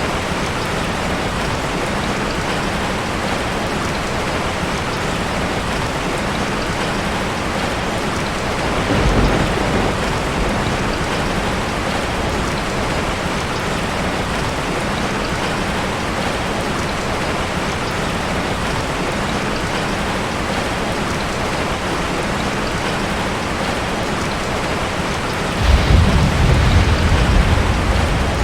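Heavy rain falling steadily on a tin roof. A short low rumble of thunder comes about a third of the way in, and a louder, longer thunder rumble near the end.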